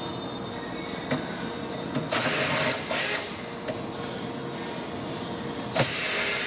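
Power drill with a socket backing out dryer face-plate screws: three runs of the motor, each whining up to speed, a short one, a brief blip, then a longer run near the end.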